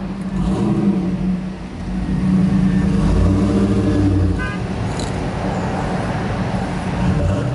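Street traffic: a motor vehicle engine running close by, with a steady low hum that swells louder about two seconds in and eases off after about four seconds.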